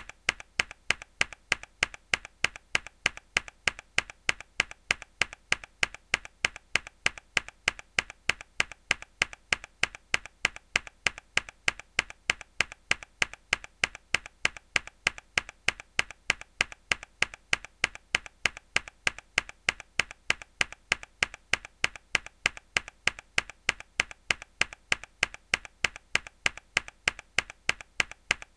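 A mechanical keyboard key pressed hard again and again in an even loop, about three sharp clicks a second, each loud click paired with a fainter one.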